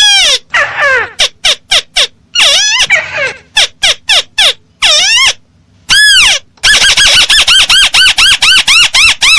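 Lure recording of a crake's call (burung tikusan): loud, harsh notes that arch up and fall away, spaced irregularly at first, then from about two-thirds of the way in a fast even run of about four notes a second.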